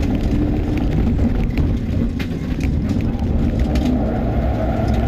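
Mitsubishi Lancer Evolution IX rally car's turbocharged four-cylinder engine running hard, heard from inside the cabin, its pitch shifting as the driver works the throttle through the bends. Sharp cracks sound now and then over the engine.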